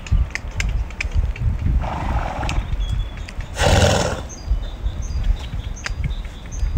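Horses snorting, two breathy blows about two seconds apart, with scattered soft clicks and thuds. Birds chirp faintly in the background.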